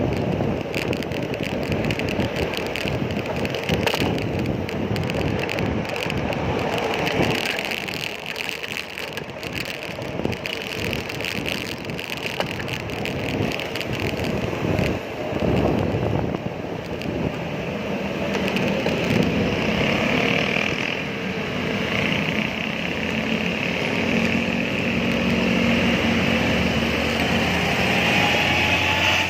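Road traffic with passing motor vehicles, heard from a moving bicycle, with wind buffeting the microphone. In the later part, a vehicle engine runs steadily nearby and its pitch rises slowly near the end.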